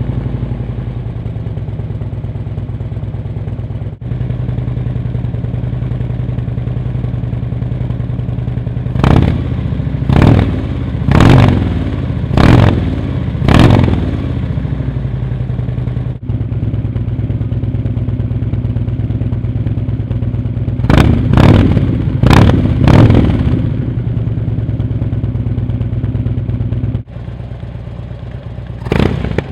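Harley-Davidson V-twin motorcycle engine idling, with quick throttle blips in two bursts, where the revs shoot up and drop straight back, five in a row about nine seconds in and four more past twenty seconds. The sound cuts abruptly a few times, as if spliced.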